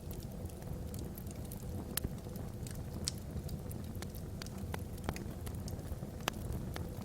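Wood fire burning in a fireplace, crackling with irregular sharp pops, two of them louder, over a steady low rumble.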